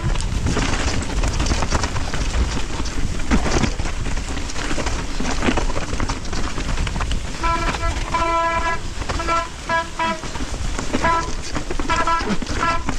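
Mountain bike running down a wet, rough trail: a steady rush of tyre, wind and rain noise with rattling. In the second half, the disc brakes squeal in several short, pitched pulses as they are applied and released in the wet.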